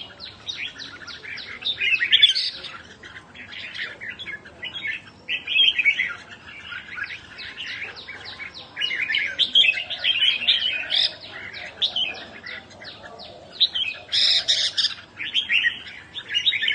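Bird chirping in rapid, continuous strings of short high notes, in bursts with brief pauses.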